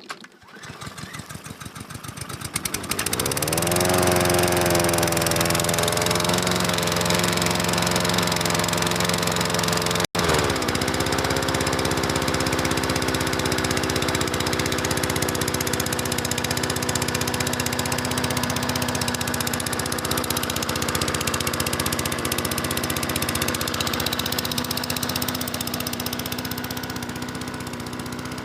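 Briggs & Stratton 650E-series lawnmower engine cold-starting on choke from a pull: it fires unevenly at first, speeds up over the first few seconds and settles into steady running. There is a momentary break about ten seconds in, after which it runs on at a slightly lower pitch.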